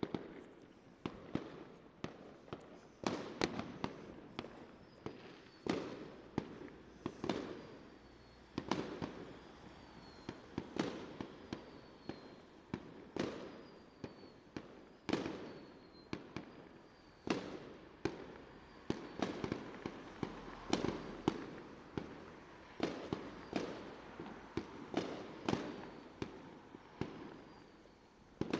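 Fireworks going off: an irregular run of sharp bangs, sometimes several a second, each dying away with an echo. Faint short falling whistles repeat in the middle stretch.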